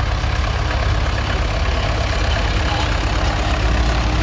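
Vintage tractor engines running steadily at low speed. A faint steady tone joins the low engine sound about two and a half seconds in.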